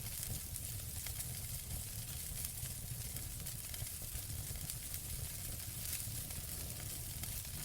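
Wood fire burning in a fireplace: a steady hiss with many small, quick crackles and pops, over a low rumble.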